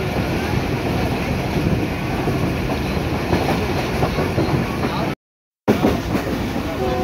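Passenger train running, heard from inside a carriage at a window: a steady rumble with rushing air. The sound drops out completely for half a second about five seconds in.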